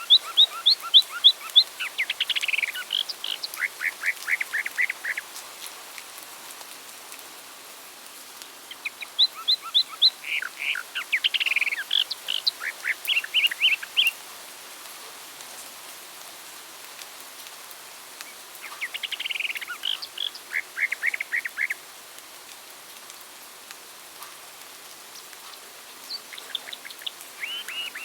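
A songbird singing the same kind of phrase again and again, about every nine seconds: each phrase is a few seconds of quick, high, repeated whistled and trilled notes. A faint steady hiss lies under it.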